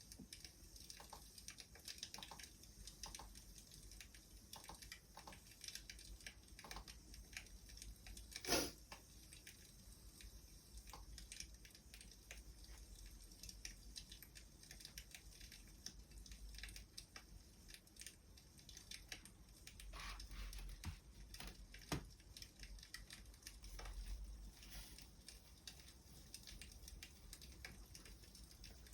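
Wood fire crackling faintly, with irregular small pops and a louder pop about eight seconds in.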